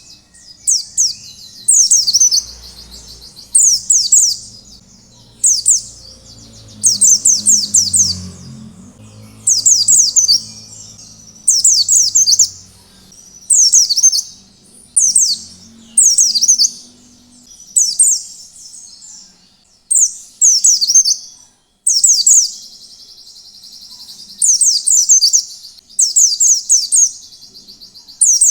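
White-eye (pleci) singing its full 'ngalas' song: short, loud bursts of high, quickly falling notes, repeated about every second and a half.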